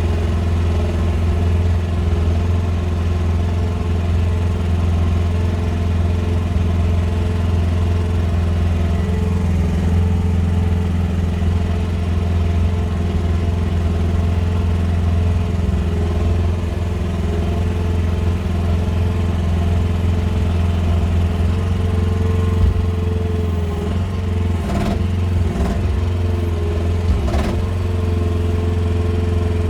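QH13R mini excavator's small diesel engine running steadily. About three-quarters of the way in, its note dips briefly and a few sharp knocks sound.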